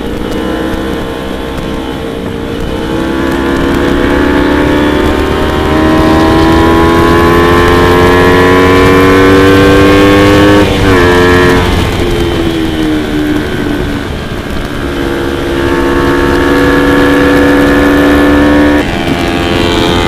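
Motorcycle engine pulling under acceleration, its pitch climbing slowly for several seconds and then dropping suddenly at a gear change, about halfway through and again near the end.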